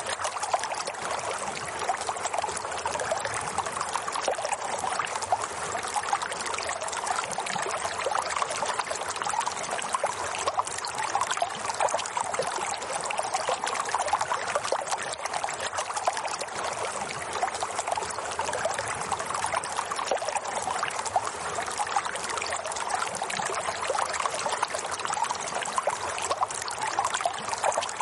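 Steady running water, a continuous trickling and splashing that holds the same level throughout.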